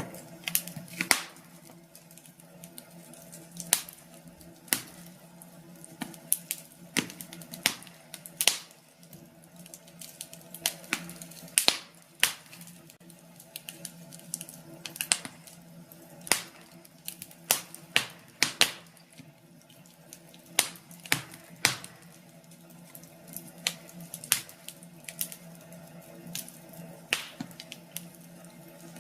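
Wood fire crackling in a fireplace: irregular sharp pops and snaps, several a second at times, over a steady low background.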